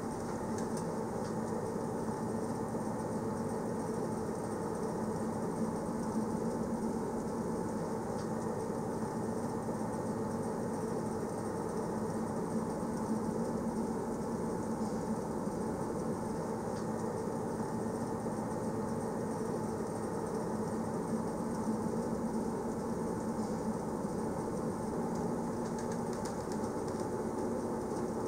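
Passenger train running steadily along the rails: an even rumble with a continuous low hum.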